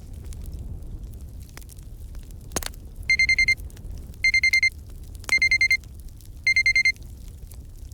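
Digital countdown-timer alarm beeping in four quick bursts of about five high beeps each, starting about three seconds in. A crackling fire runs underneath, with one sharp crack just before the beeping.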